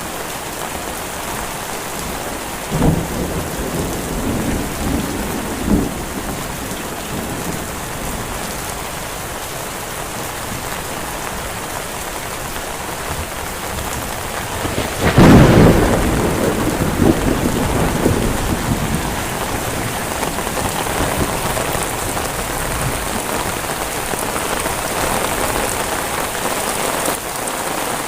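Heavy rain falling steadily, with a loud thunderclap about halfway through that rumbles on for two or three seconds. Two short knocks sound within the first six seconds.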